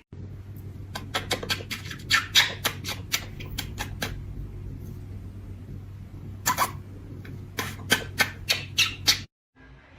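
A pet animal's short squeaks and clicks in quick clusters over a steady low hum, cut off suddenly near the end.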